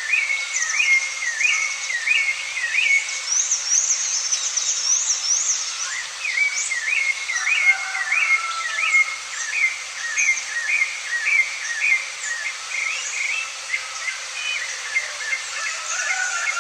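Birds calling: a steady train of short sweeping chirps, about three a second. A second, higher-pitched series of chirps joins a few seconds in.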